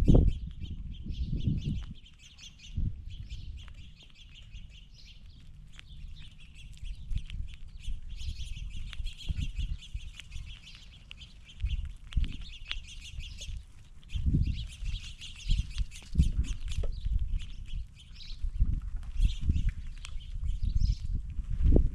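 Many small birds chirping continuously in the background, with repeated low thumps and rustles close to the microphone from animals moving about the feeding table.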